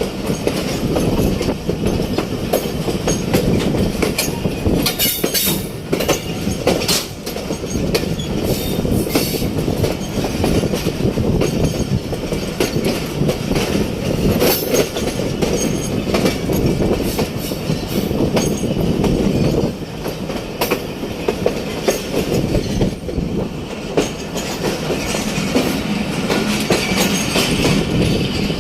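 Passenger train coach running over the rails while pulling out of a station: a steady wheel rumble with irregular clicks and clacks from rail joints and points.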